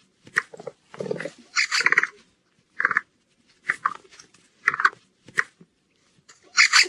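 An animal's short, rough calls, repeated about once a second with silence between them.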